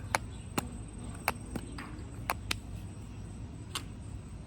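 Sharp plastic clicks and taps of lip gloss tubes and caps being handled and set down, several at irregular intervals, over a low steady background hum.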